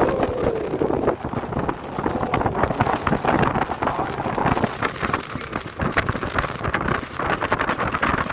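Wind buffeting the microphone over the rushing sea water of a ship under way, with a rough, crackling hiss.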